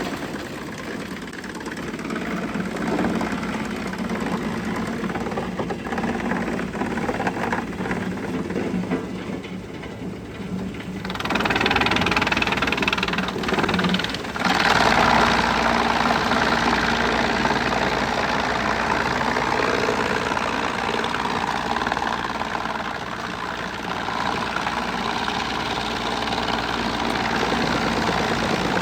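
Wood chipper engine running steadily, growing louder about halfway through with a deeper hum.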